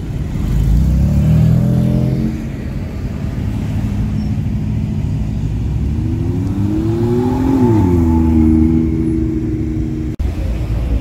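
Sports car engines accelerating past. The first pulls away at the start, rising in pitch. About six seconds in, a BMW M2 revs up through a rising note that drops sharply just past seven seconds and then holds steady.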